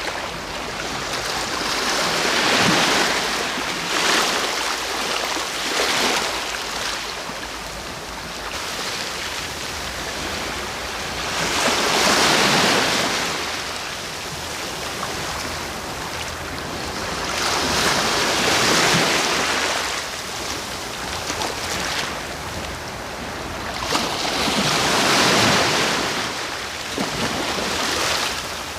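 Sea waves breaking on the shore, a steady wash of surf that swells into a louder crash every six or seven seconds.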